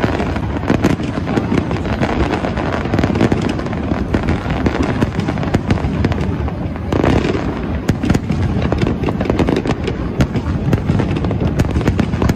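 Aerial fireworks display in a dense, continuous barrage: shells bursting one after another with booms and crackles over a steady rumble, with one louder burst about seven seconds in.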